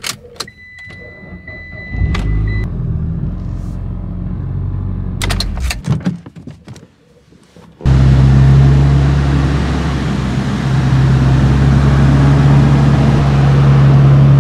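A few clicks and a steady electronic beep lasting about two seconds near the start. From about eight seconds in, a Nissan Skyline R34 GT-R's RB26DETT twin-turbo straight-six comes in suddenly and idles loudly and steadily.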